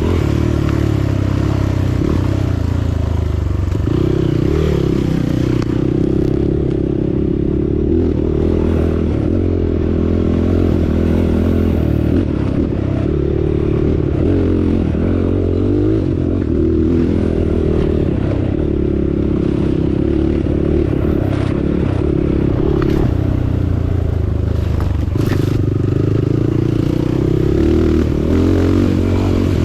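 Motorcycle engine running as it is ridden, its pitch rising and falling a little with the throttle, with a few scattered knocks.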